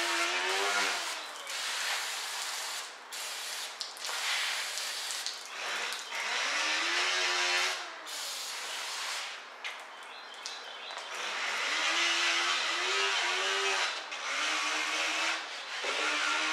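A power tool, drill-like, run in repeated spurts, its whine rising and falling in pitch over a steady hiss.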